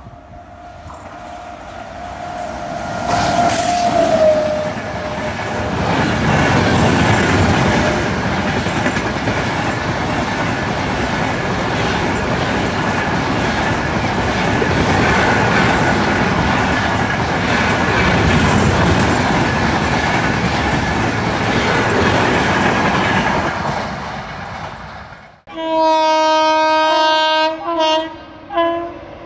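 An express passenger train passing at speed: its horn sounds and drops in pitch as the locomotive goes by, then the long rake of coaches rushes past with wheels clattering over the rail joints for about twenty seconds. After a sudden cut, an electric locomotive's horn blows in several short blasts near the end.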